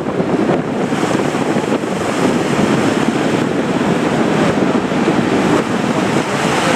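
Heavy surf breaking and wind buffeting the microphone, a loud steady rush of noise.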